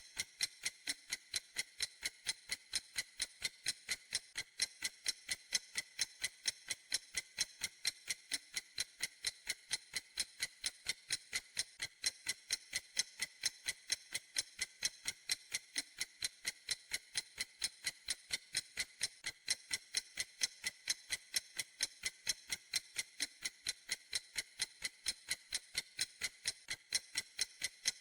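Clock ticking steadily: an unbroken, evenly spaced run of sharp, high, thin ticks.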